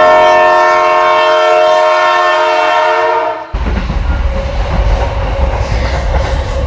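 A train's horn sounds a steady multi-tone chord for about three and a half seconds and cuts off suddenly. After it comes the low rumble and rail clatter of a train running along the track.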